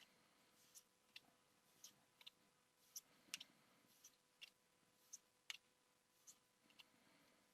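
Faint clicks and soft snaps of Pokémon trading cards being flipped through one at a time, about one to two a second at an uneven pace, over a faint steady hum.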